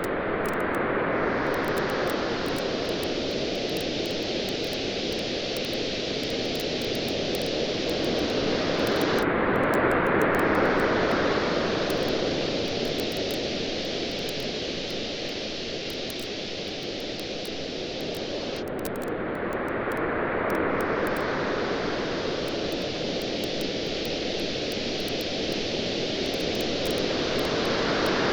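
Ocean waves washing onto a beach, swelling and easing about every nine to ten seconds over a steady hiss of surf, with small campfire crackles popping throughout.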